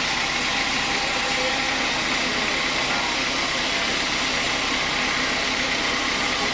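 Sawmill machinery running steadily, a constant mechanical drone with a strong hiss.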